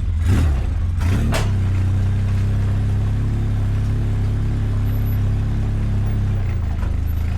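A motor vehicle's engine running steadily at an even, low speed, after a couple of sharp knocks about a second in.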